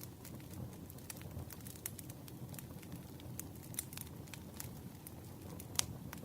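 Campfire crackling: irregular sharp pops and snaps over a low, steady rumble of burning wood, with one louder pop near the end.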